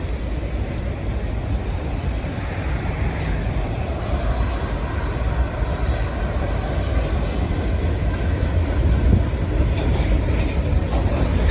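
Union Pacific freight train's cars rolling past, a steady low rumble of steel wheels on the rails.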